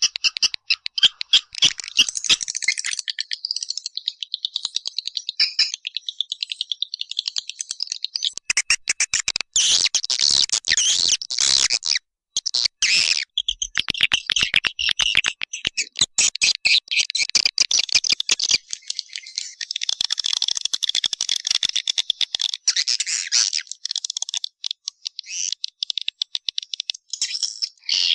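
Swiftlet lure call: a dense, fast twittering of swiftlet chirps and clicks, played as a recording to draw swiftlets into a nesting house. The twittering stops briefly a couple of times in the middle.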